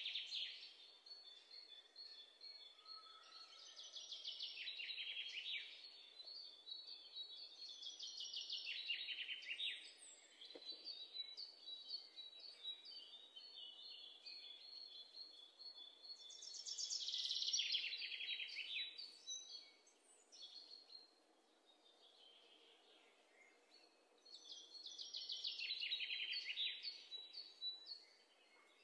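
Birds chirping: several bouts of rapid, high trilled notes, each lasting a couple of seconds and coming every few seconds, with fainter chirps between.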